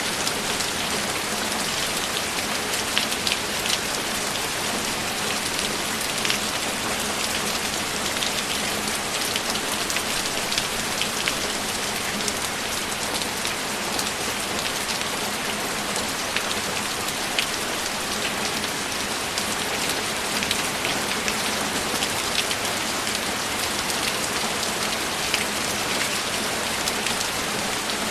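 Steady rain falling, an even hiss with many individual drops ticking.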